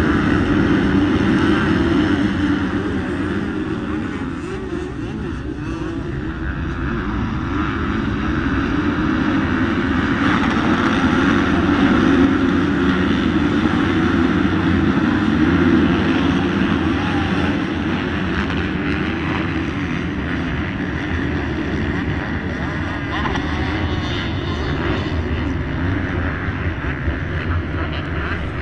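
A pack of motocross bikes racing, their engines running hard together in one continuous din that grows louder and fades back several times as riders pass.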